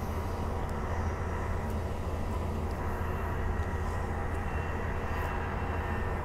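Steady low hum and rumble inside the carriage of a Transperth Bombardier B-series electric multiple unit, even throughout.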